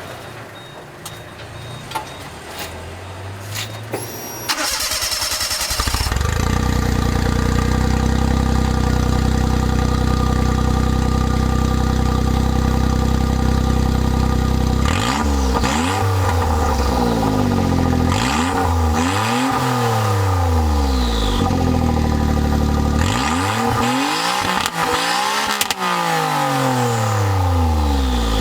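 Suzuki Wagon R's K6A engine with no muffler, cranked and catching about five seconds in, then idling with a raw unmuffled exhaust. In the second half it is free-revved several times, each rev rising and dropping back to idle.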